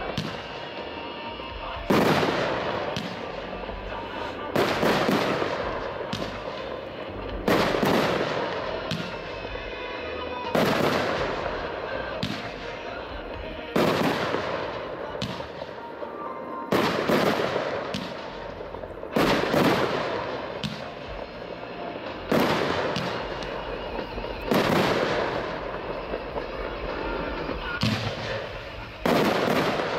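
Aerial firework shells bursting one after another, roughly every two to three seconds, each sharp bang trailing off over a second or two.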